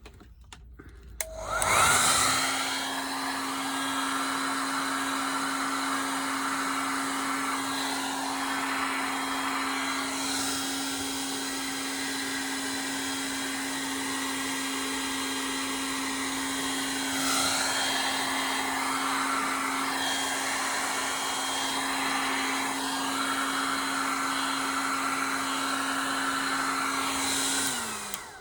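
Handheld hair dryer switched on, running steadily with a constant motor hum while blowing across wet pour paint, its airflow note shifting slightly now and then as it is moved, then switched off near the end.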